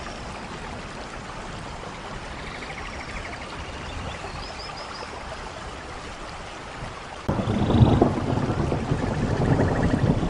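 Steady rain with faint high trills over it; about seven seconds in, a much louder low rumble of thunder sets in abruptly and carries on.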